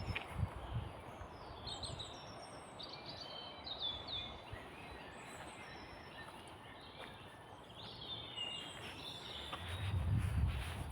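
Small songbirds chirping and trilling, many short high calls overlapping through the whole stretch, over a faint steady outdoor hiss. A low rumble comes in just at the start and builds again near the end.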